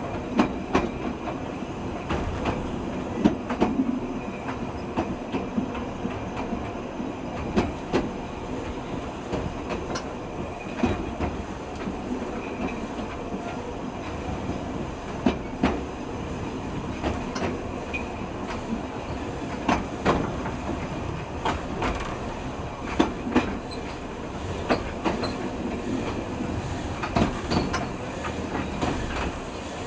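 Narrow-gauge train running along the track: a steady rumble of wheels on rail, with sharp clacks every few seconds, often in quick pairs, as the wheels cross rail joints.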